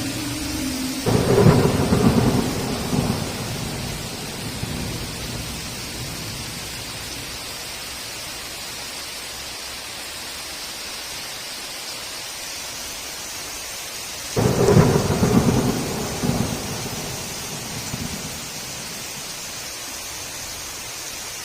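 Heavy rain falling steadily, with two sudden claps of thunder, one about a second in and another about two-thirds of the way through, each rumbling away over two or three seconds.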